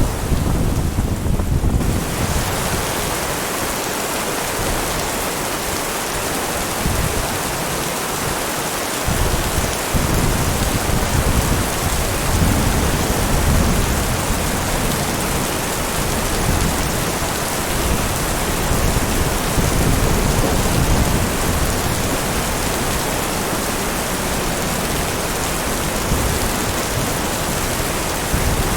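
Heavy rain falling in a steady hiss, with thunder rumbling low and rolling in and out beneath it.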